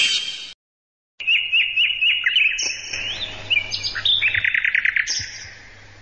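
A songbird sound effect: a run of short, high, falling chirps, then a quick trill of about ten notes a second. It begins after a moment of silence, which follows the tail end of a louder, hissing clip.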